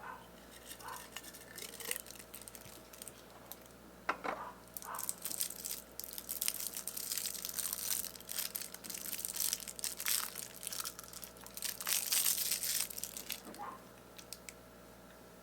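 Crinkling and rustling handling noise in uneven, crackly bursts, busiest in the middle and stopping a couple of seconds before the end.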